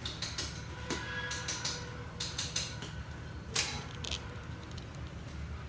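Steady low mechanical rumble with scattered sharp clicks and taps, a louder one about three and a half seconds in.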